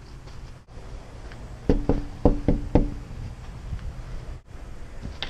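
Knocking on a door: about five quick raps in a row, with a faint ring under them.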